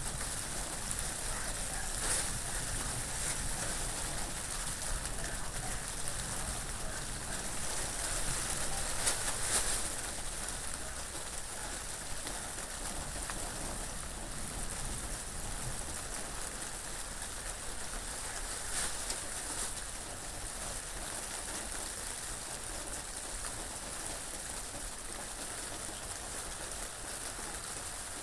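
Steady rain falling, an even hiss, with brief louder swells about two, nine and nineteen seconds in.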